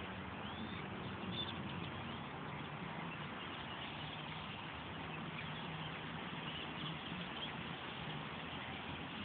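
A huge flock of blackbirds calling all at once: a dense, steady chatter of many overlapping chirps and cackles, with a low steady hum underneath.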